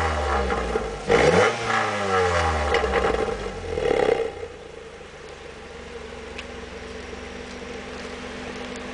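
Ford Focus 2.0 four-cylinder engine with a cat delete and an aftermarket Asso rear exhaust, free-revved: a sharp blip about a second in that falls back in pitch, a second blip around four seconds, then settling to a steady idle.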